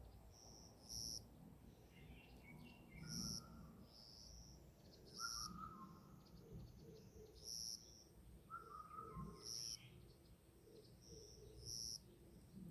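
Faint forest birdsong: one bird repeats a short high note about every two seconds, while another sings lower warbling phrases now and then.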